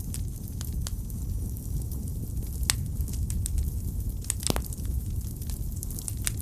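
Wood fire burning in a fireplace: a steady low rumble of flames with scattered sharp crackles and pops, one louder pop about four and a half seconds in.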